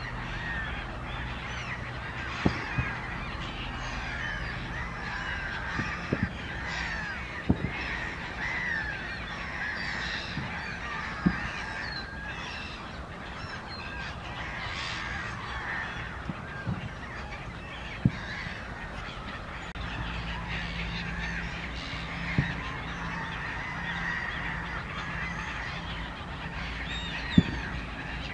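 A large flock of waterfowl calling continuously, many short overlapping honking calls at once, with a few sharp knocks scattered through.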